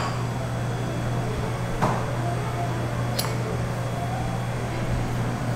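A steady low hum with two faint clicks, the first a little under two seconds in and the second about a second and a half later.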